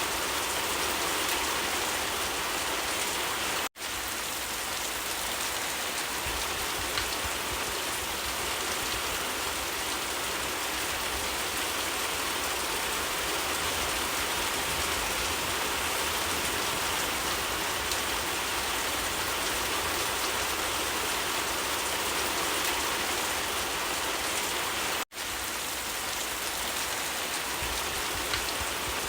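Steady rain falling, an even hiss of drops that cuts out for an instant twice, about four seconds in and about four seconds before the end.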